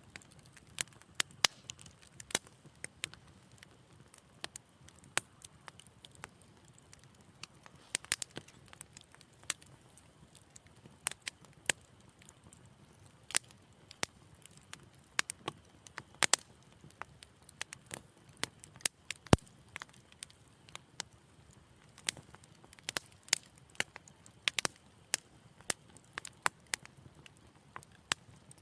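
Wood fire crackling in a fireplace: irregular sharp pops and snaps, a few a second, over a faint hiss, with one louder pop about two-thirds of the way through.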